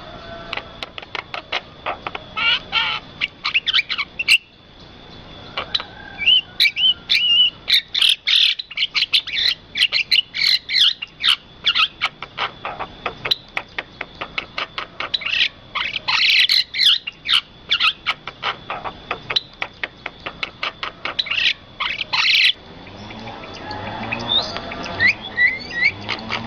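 Birds chirping and calling in quick, dense runs of short sharp notes over a steady high tone. About three quarters of the way through the calls thin out and a softer, lower sound rises, with a few rising chirps near the end.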